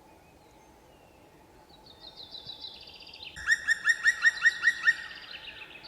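A bird calling: a fainter run of high notes, then a fast series of loud, ringing notes, about seven a second, that tails off near the end. There is no drumming on wood.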